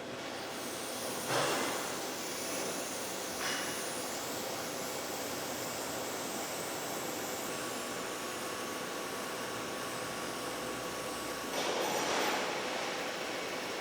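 Fiber laser cutting machine at work on sheet metal: a steady hiss of the cut and machinery, with brief louder rushes about a second in, at about three and a half seconds, and again near the end, and a faint steady tone for a few seconds in the middle.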